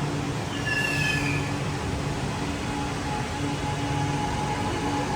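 Metro train running through an underground station: a steady rumble with a pulsing low hum, a brief falling high-pitched squeal about a second in, and a steady motor whine that sets in near three seconds.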